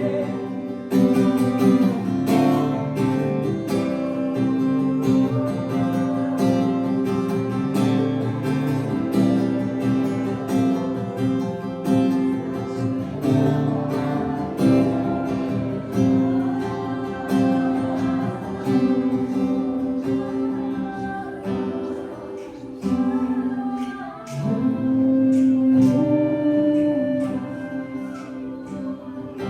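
Worship music: acoustic guitar strumming chords, with singing.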